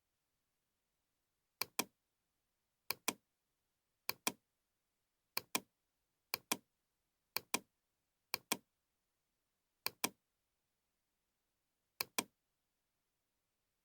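A computer mouse double-clicking nine times, the pairs coming about a second apart with longer gaps near the end, over dead silence.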